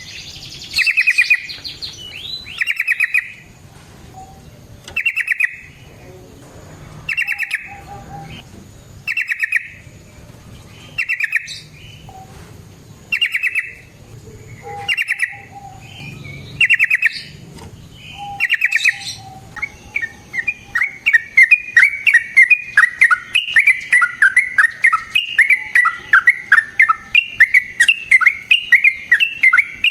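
Yellow-vented bulbul (trucukan) singing: short bubbly phrases about every two seconds, then a long unbroken run of quick varied notes beginning about twenty seconds in.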